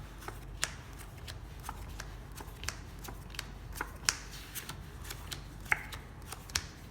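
Playing cards being dealt and laid onto a table one after another: short, sharp card slaps at an irregular pace, a few a second.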